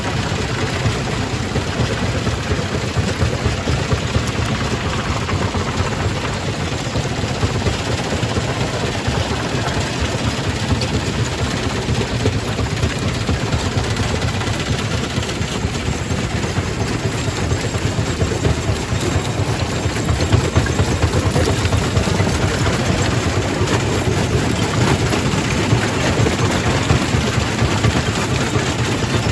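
Quarry primary rock crusher running, a steady heavy mechanical din with a dense rattle of stone being crushed.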